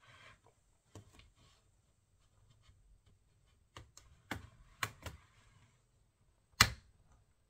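Handling noise: a few scattered light clicks and knocks of hard objects, a cluster of them midway, and one sharp knock about two-thirds of the way through.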